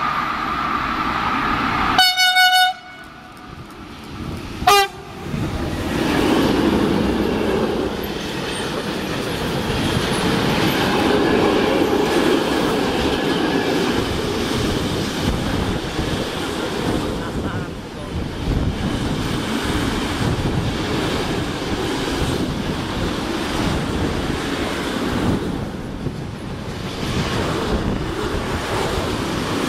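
A train horn sounds one loud blast, then a short toot a couple of seconds later. After that, a freight train of car-carrier wagons loaded with vans rumbles and rattles steadily past at speed.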